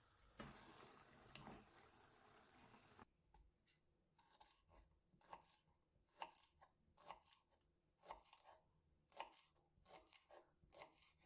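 Faint knife chopping on a cutting board: short separate cuts, one or two a second at an uneven pace, starting about three seconds in after a stretch of soft hiss.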